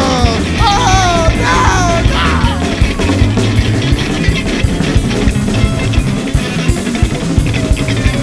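Live rock band playing loudly: drum kit and guitar, with wordless sung wails in the first couple of seconds.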